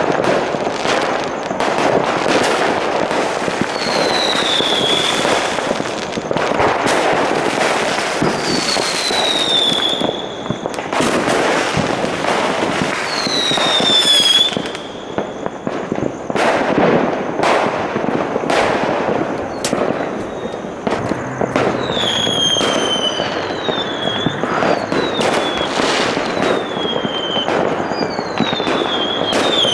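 Many fireworks going off at once: a dense, continuous barrage of bangs and crackling, with falling whistles every few seconds, coming more often in the second half.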